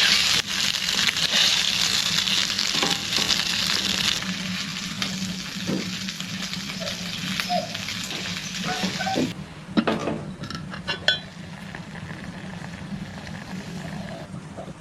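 Food sizzling and frying in a hot pan, with stirring. The sizzle is loudest for the first few seconds, drops sharply about two-thirds of the way through, and a few sharp clinks follow.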